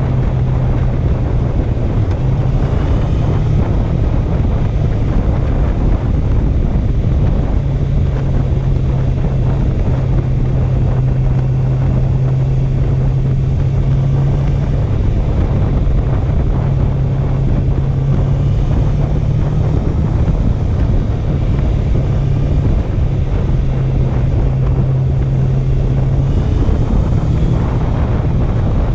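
Honda CB650F's inline-four engine running at steady cruising revs while riding, under heavy wind rushing over the microphone.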